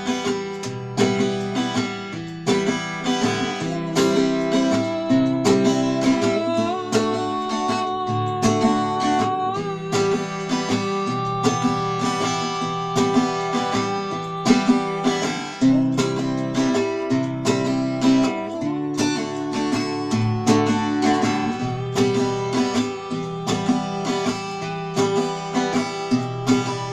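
Acoustic guitar playing an instrumental passage of the song, with fast, regular strummed and picked strokes over held chords.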